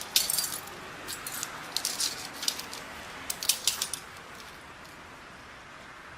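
A quick run of light, sharp clicks and jingles, like small hard objects being handled, for about four seconds, then a faint steady hiss.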